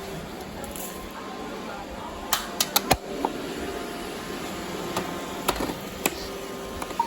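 Robot vacuum running with a steady hum, with a quick cluster of sharp knocks about two and a half seconds in and a couple more single knocks later.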